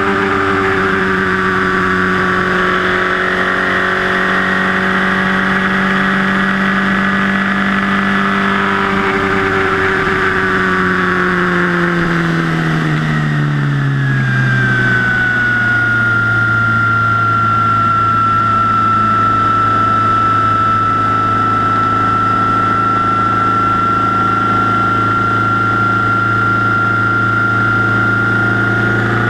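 Mitsubishi Lancer Evo VIII's turbocharged 4G63 four-cylinder engine heard from inside the engine bay, running hard with its exhaust manifold glowing red-hot. The revs hold high, ease down over a few seconds about ten seconds in, then stay steady, with a high whine over the engine note.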